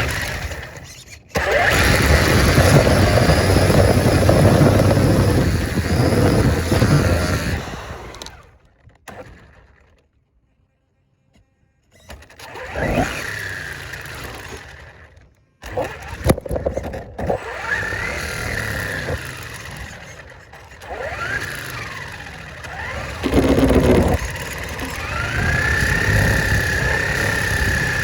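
Radio-controlled car being driven. Its motor whines, rising and falling in pitch as it speeds up and slows, over rough running noise. It pauses briefly to near silence about ten seconds in, and the motor holds a steady high whine near the end.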